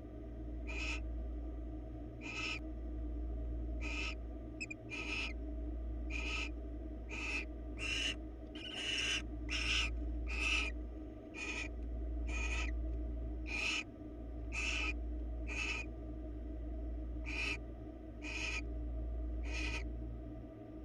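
Barn owls giving rasping, hissing screech calls, short bursts repeated about once a second, over a steady low electrical hum.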